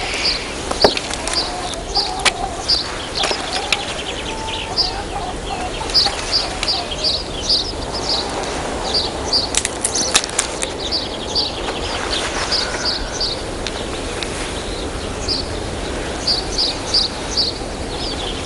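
Small birds chirping in quick runs of short, high notes, several a second, with a few brief rustles of cloth near the middle.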